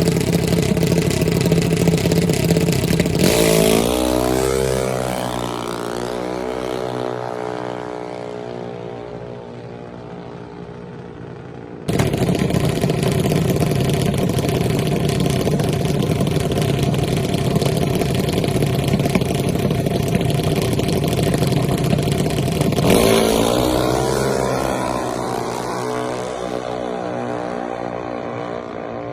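A racing vehicle's engine running hard at high revs. Twice it changes pitch as it passes and then fades into the distance, with an abrupt cut back to the loud engine between the two passes.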